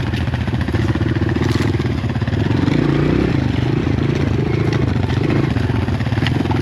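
Dirt bike engine running steadily while riding, its pitch wavering up and down around the middle, with a couple of brief knocks.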